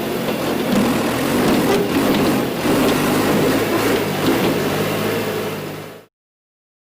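John Deere 410 loader backhoe's engine running steadily under way, a constant low drone with noise over it, cutting off abruptly about six seconds in.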